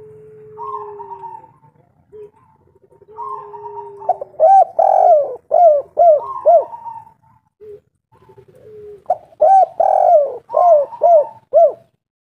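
Spotted dove cooing: two runs of quick repeated coos, the first about four seconds in and the second about nine seconds in, each following fainter drawn-out notes.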